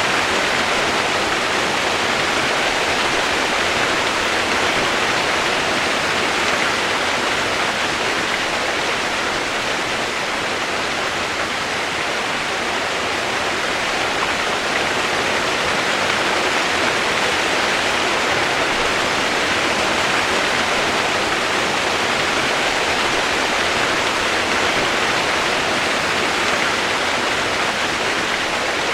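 Steady rush of running water, an even, unchanging noise with no breaks.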